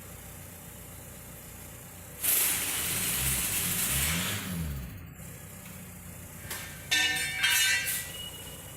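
Volkswagen 1.9 TDI (AUY) four-cylinder turbodiesel idling steadily. About two seconds in, it is revved up and back down under a loud hiss lasting a couple of seconds. Near the end come two short hissing bursts with a whistling tone.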